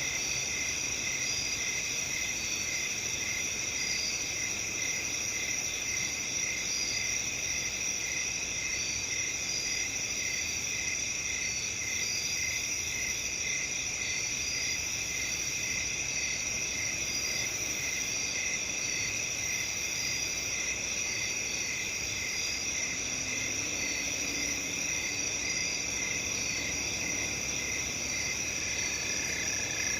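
A steady chorus of crickets chirping, several voices at different pitches layered over one another, one of them pulsing regularly about twice a second.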